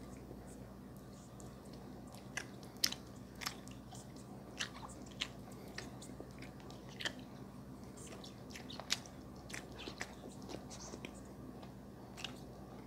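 Close-miked ASMR chewing of noodles: soft, irregular wet mouth clicks and smacks, about a dozen spread unevenly, over a faint steady low hum.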